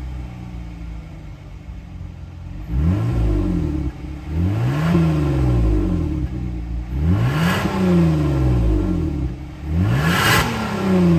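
Kia K7 3.3's V6 engine running through a custom valved (variable) exhaust: it idles for a few seconds, then is revved four times, each blip rising in pitch and falling back to idle.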